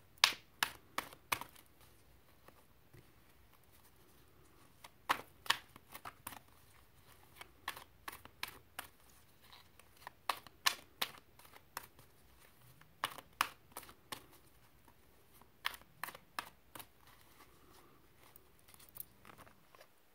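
Tarot cards being shuffled and handled: sharp, irregular clicks and snaps of card stock, some in quick clusters.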